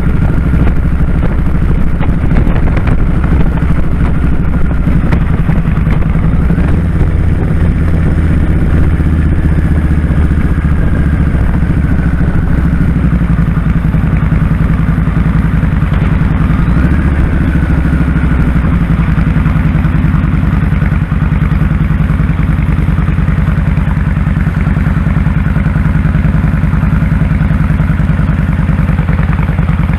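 2001 Kawasaki Drifter 1500's V-twin engine running loud and steady while riding, its note shifting a few times as the engine speed changes.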